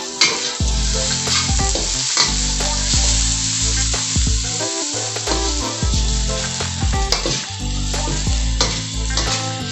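Sliced sausages and onion sizzling hard in a hot wok while being stir-fried, with the metal spatula scraping and clicking against the pan several times. Background music with a low bass line plays underneath.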